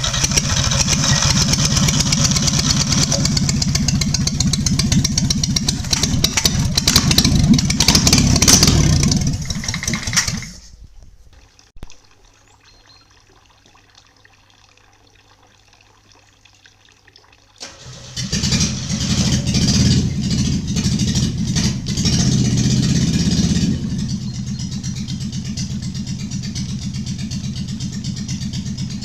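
Opel Kadett C 1.2N four-cylinder OHV engine running just after a start, revs rising over the first nine seconds before it is switched off about ten seconds in. After a pause of about seven seconds it is started again, runs at raised revs for about six seconds, then settles to a steady idle.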